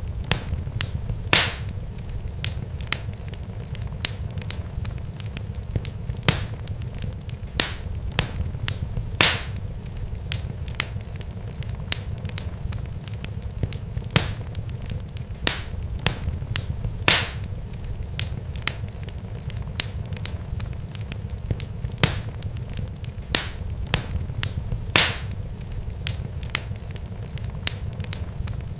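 Irregular sharp crackles and pops, several a second with a louder snap every few seconds, over a steady low rumble.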